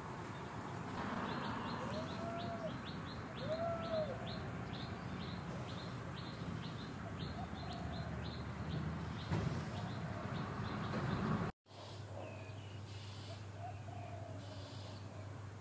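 Outdoor ambience with a bird chirping steadily, about two short high chirps a second, and two short rising-and-falling calls a few seconds in. The sound cuts out for a moment near the end, then a low hum carries on.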